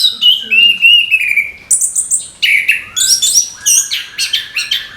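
Orange-headed thrush (anis kembang) singing a fast, varied run of high, sliding chirping notes with no pauses. Near the end a steady whistling tone starts underneath the song.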